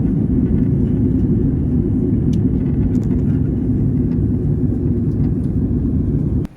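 Loud, steady low rumble, like a vehicle on the move, that cuts off suddenly near the end.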